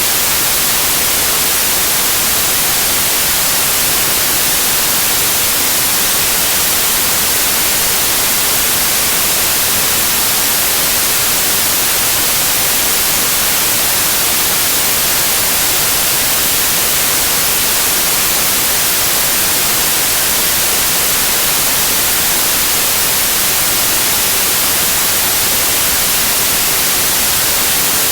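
Steady white noise in the form of TV static, an even hiss brightest in the treble, unchanging throughout.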